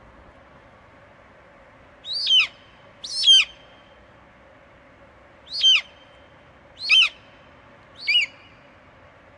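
An eagle screeching five times in short calls, each sliding down in pitch, the first two close together and the rest about a second or more apart.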